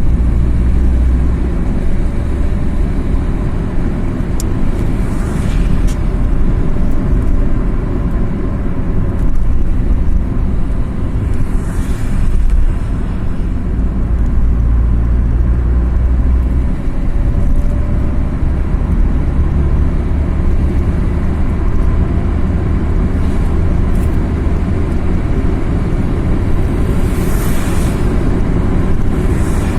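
Car driving on the road: steady engine and tyre noise, heaviest in the low end, with three brief rushing swells about five, twelve and twenty-eight seconds in.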